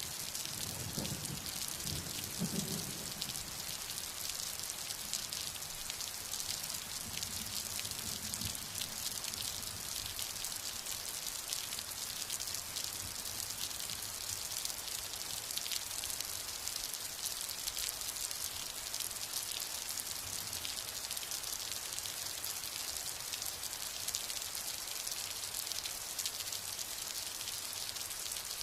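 Steady rain, a dense even patter of drops throughout. A low rumble of distant thunder comes in the first few seconds and again, weaker, about eight seconds in.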